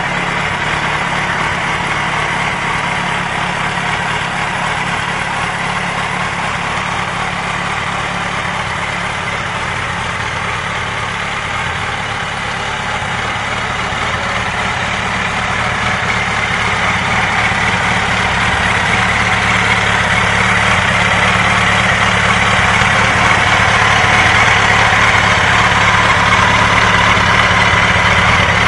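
Yamaha R1 inline-four motorcycle engine idling steadily, with no revs, gradually growing louder over the second half.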